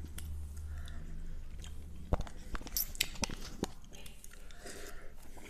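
Close-up chewing of instant cup noodles, with scattered small clicks from the wooden chopsticks working in the cup.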